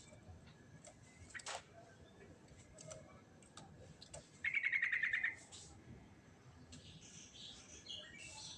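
Yellow-vented bulbul (trucukan) singing: scattered short chirps, then a loud, fast trill about halfway through, and a burst of high chattering notes near the end.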